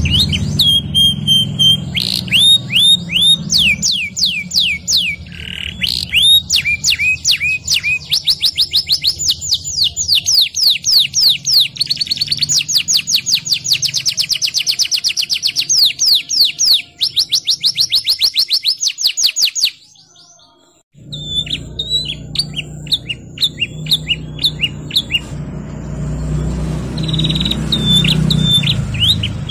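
Domestic canary singing a rolling song of fast repeated trill notes, each run of notes held for several seconds. The song breaks off for about a second two-thirds of the way through, then resumes with sharper chirps, over a low background hum.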